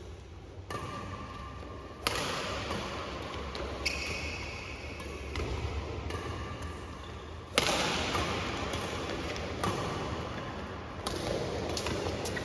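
Badminton play: several sharp strikes of rackets on the shuttlecock and thuds on the court floor, the loudest about two seconds and seven and a half seconds in, over steady hall noise.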